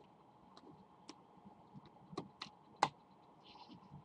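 Light, scattered clicks and taps of trading cards being handled, about half a dozen, the loudest a little under three seconds in, with a brief soft rustle soon after.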